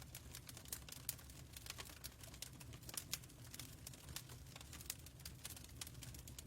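Fireplace fire crackling: irregular sharp pops and snaps of burning wood over a low, steady rumble of the flames.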